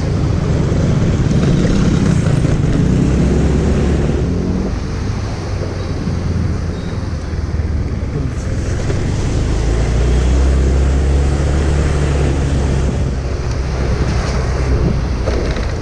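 Heavy wind buffeting the microphone over a motorcycle engine running steadily, its low hum wavering a little in pitch.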